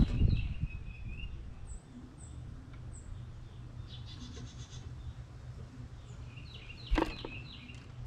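Birds calling at a feeder: short chirping call series near the start and again about seven seconds in, a few high thin notes, and a fast pulsing call in the middle. Two dull thumps, one at the start and one about seven seconds in, over a steady low rumble.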